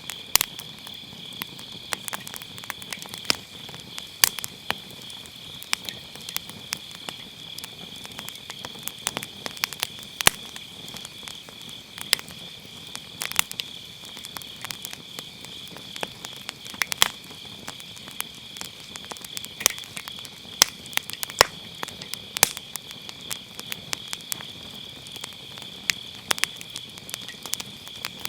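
Firewood burning in a round fire pit, crackling with sharp irregular pops, over the steady high chirping of autumn grass insects.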